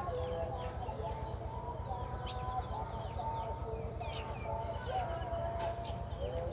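Several birds chirping and calling over one another, with short quick chirps and longer held, wavering notes, over a steady low rumble.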